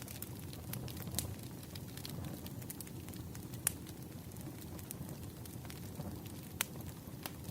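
Campfire burning: a steady low rumble of flames with scattered sharp crackles and pops from the wood, a few standing out about a second in, midway and near the end.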